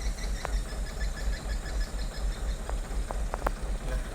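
Vehicle engine idling with a steady low rumble, with a few sharp clicks, most of them in the second half.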